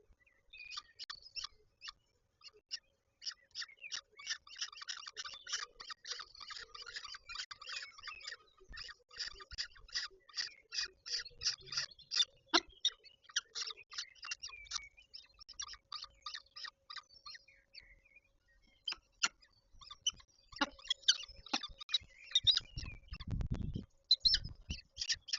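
Peregrine falcons calling at the nest: a long run of short, high calls repeated several times a second, with a pause before the calls resume. A low rumble sounds briefly near the end.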